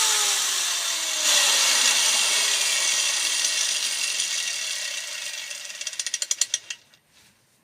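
Angle grinder spinning down after a brief test run: its whine falls steadily in pitch and fades, ending in a run of slowing ticks as the disc coasts to a stop about seven seconds in. The run is a check of the disc for wobble.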